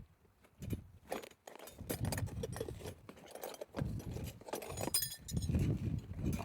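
Objects being handled: irregular knocks and rustling, with a few light metallic clinks about five seconds in.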